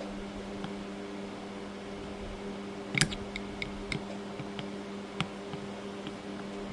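Scattered sharp clicks and taps of a screwdriver working a seized carburetor screw back and forth, the loudest about halfway through, over a steady background hum.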